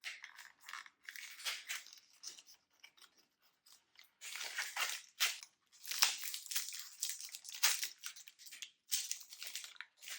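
Snack packaging being handled and opened, crinkling and tearing in a series of bursts.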